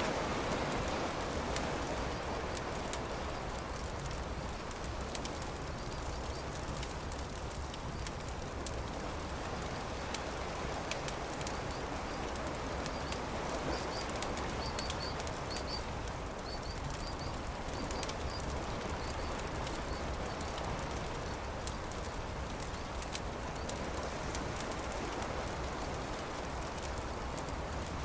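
Campfire crackling with many sharp pops and snaps over a steady rush of background noise. A bird gives a series of short high chirps about halfway through.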